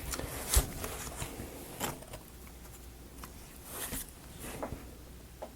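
Scattered light clicks and taps of thin wooden model-kit pieces being handled and fitted together, the sharpest about half a second in.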